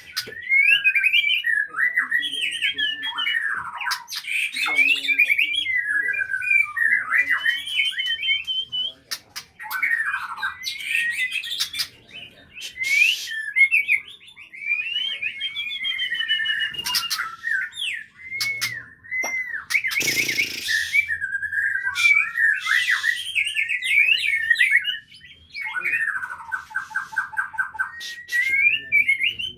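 White-rumped shama singing a long, varied song of quick whistled phrases and chatters. There is a brief burst of noise about twenty seconds in, and a fast run of repeated notes near the end.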